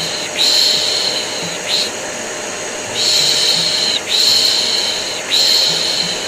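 Repeated "shh" shushing, each hiss about a second long with short breaks between, over the steady drone of a running vacuum cleaner: white noise used to soothe a colicky baby to sleep.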